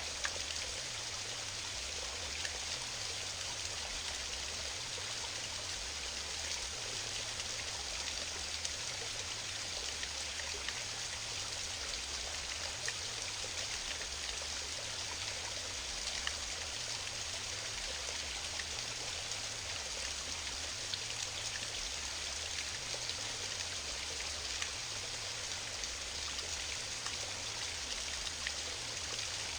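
Small waterfall: water pouring and splashing steadily over rocks, an even rushing hiss with scattered small splashes.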